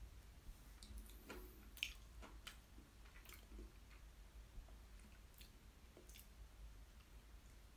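Faint close-miked chewing with soft wet mouth clicks, one a little sharper about two seconds in, over a low hum.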